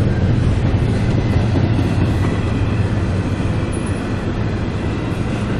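CSX train rolling past at close range: a steady, loud rumble and rush of wheels on the rails.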